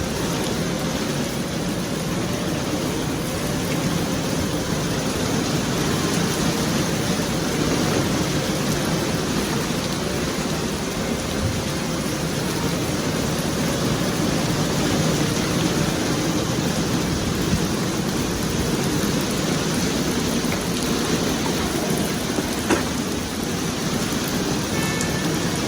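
Steady rain falling, a continuous hiss with a few single sharp ticks.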